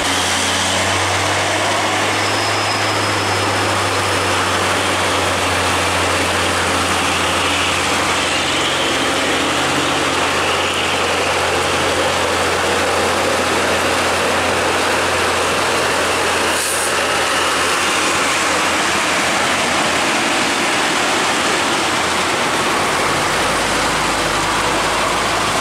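Heavy truck engine running steadily at low revs, under a broad wash of road noise; the low engine note shifts lower near the end.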